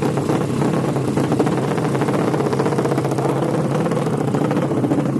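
A 200cc motorcycle engine running steadily at idle.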